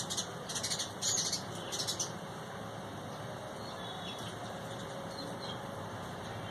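Small birds chirping in several quick, buzzy bursts through the first two seconds, then only a few faint chirps over a steady low background noise.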